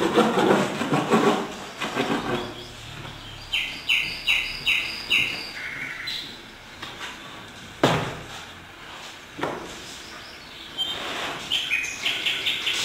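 Bird chirping: a run of four short, evenly spaced high chirps a few seconds in, and more chirps near the end. A rustling noise comes at the start and a sharp knock about eight seconds in.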